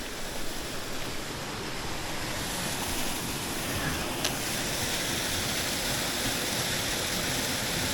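A stream rushing fast, swollen with recent rain, as a steady hiss that grows louder about two and a half seconds in.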